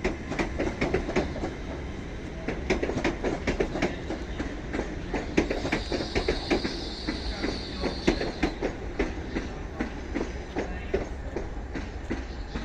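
Train running past on the rails, its wheels clicking rapidly and continuously over the rail joints, with a high wheel squeal for a couple of seconds in the middle.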